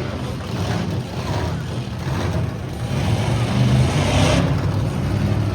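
Big truck engine running with a steady low rumble, a little louder from about three seconds in.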